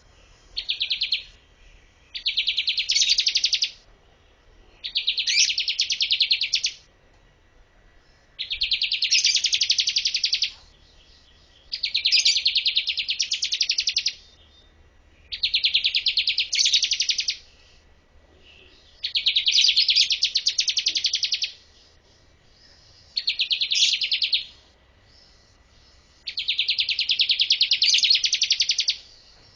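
Bar-winged prinia singing: about nine bouts of a fast, high trill, each lasting one to two and a half seconds, with short pauses between them.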